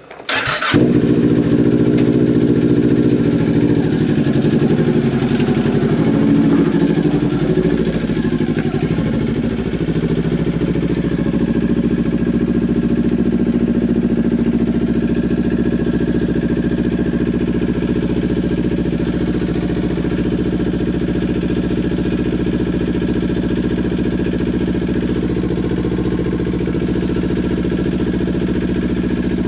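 Kawasaki Ninja 400's parallel-twin engine starting about a second in, after a brief crank, then idling steadily through a Leo Vince LV10 aftermarket exhaust. The idle wavers a little for the first several seconds before settling.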